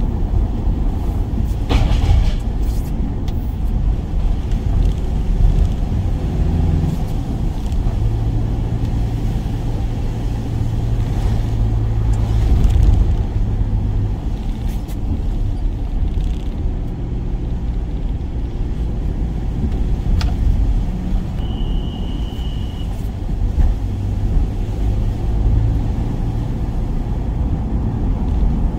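Work van running on the road, heard from inside the cab: a steady low engine and road rumble.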